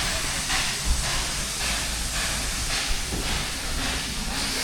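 Steam locomotive hissing, its steam sound surging and easing in an even rhythm about twice a second.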